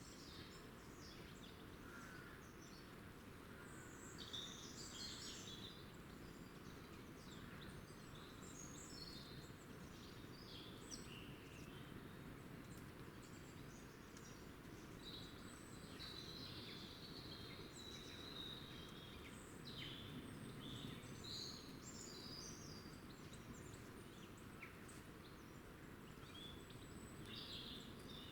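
Faint songbirds chirping and twittering, many short calls on and off throughout, over a steady low background rumble.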